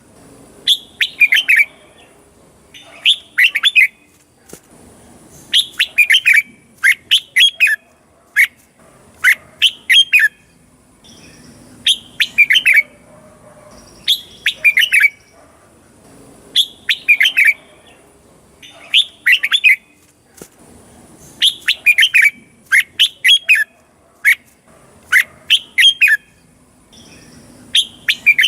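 Red-whiskered bulbul singing. It gives short phrases of three to five quick whistled notes, with a phrase about every two to three seconds.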